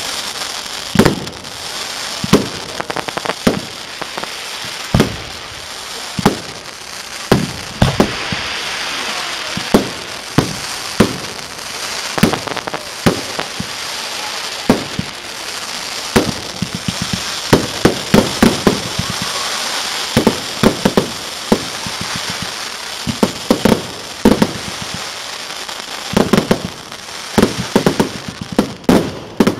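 Aerial fireworks bursting: repeated sharp bangs of shells over a steady crackle of glittering stars. The bangs come irregularly, thickest in quick runs about halfway through and near the end.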